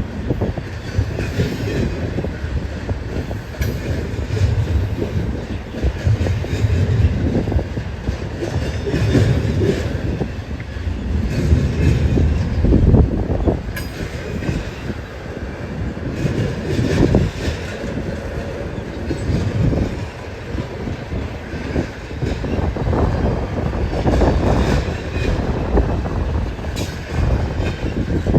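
BNSF train's cars rolling past, a continuous rumble of wheels on rail with clatter and surging swells.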